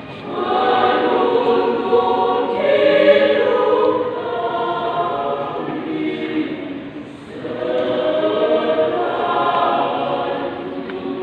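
Choir singing in two long phrases, a brief dip about seven seconds in before the second phrase swells up.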